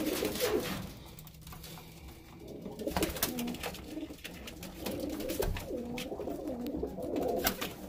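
Domestic pigeons cooing in a loft, several low coos in a row, the courting calls of newly paired cocks and hens settling on mates and nest bowls. Occasional light knocks and clicks sound among the coos.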